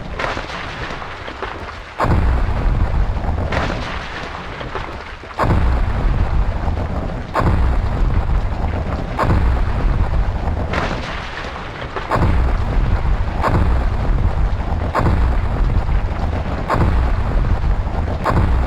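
A series of sudden deep rumbling bursts, one every one to two seconds, each fading away before the next.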